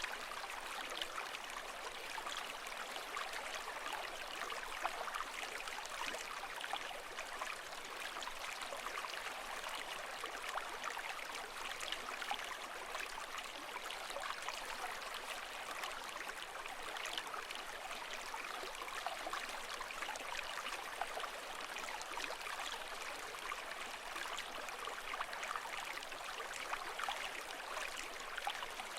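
Continuous running water, a steady trickling, bubbling wash with no pauses or changes.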